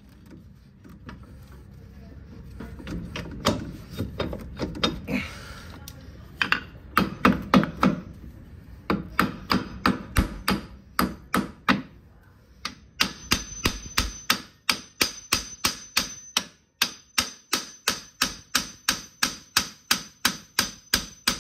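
Hammer blows on a car's front shock absorber strut and knuckle, knocking the strut loose. The strikes come irregularly at first, then about halfway through become a steady run of quick blows, about two or three a second, each with a high metallic ring.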